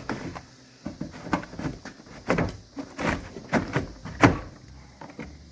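A series of knocks and clunks, the loudest about two to four seconds in, as a plastic interior door panel is hooked back onto the rear door of a Ford F250 Super Duty and pushed into place.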